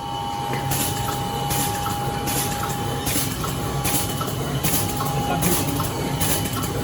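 Plastic bag-making machine (32SWC-V) running LDPE film at 80 cycles a minute: a short hiss repeats about every 0.8 s, once per bag cycle, over a steady hum and a thin high whine.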